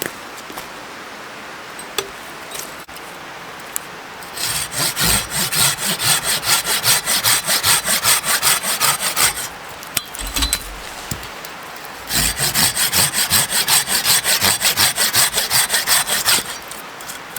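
Hand saw cutting through wood in quick, even back-and-forth strokes, in two bouts of several seconds with a short pause between them.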